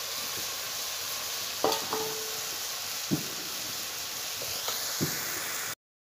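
Mushrooms sizzling as they fry in oil in a pan, a steady hiss with a few short clicks and scrapes. The sound cuts off near the end.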